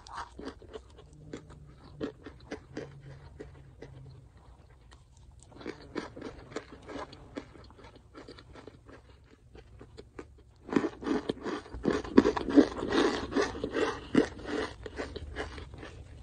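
Raw cornstarch chunks being chewed close to the microphone, crunching with many sharp little crackles. Sparse and soft at first, then much denser and louder from about two-thirds of the way in.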